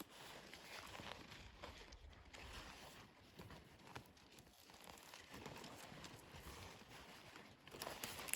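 Faint, irregular footsteps on dry ground, with light rustling.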